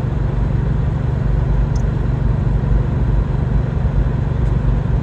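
Car driving: a steady low rumble of engine and road noise heard inside the cabin, with a faint tick about two seconds in.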